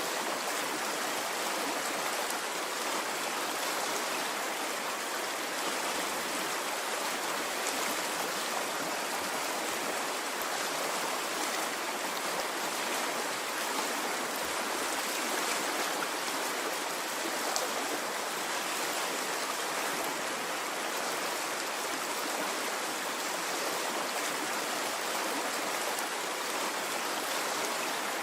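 Stream water flowing steadily, an even rushing with no swells or breaks.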